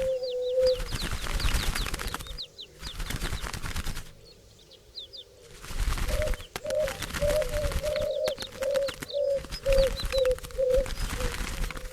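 A flock of doves beating their wings in several bursts of rapid flapping, with short high chirps over it. In the second half a run of short, low, coo-like notes repeats about twice a second.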